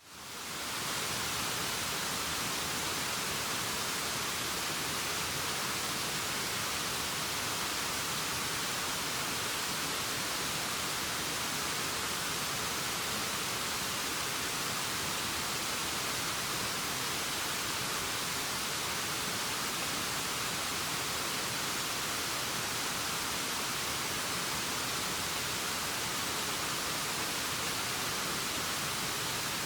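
Waterfall rushing as a steady, even hiss that fades in over the first second and then holds unchanged.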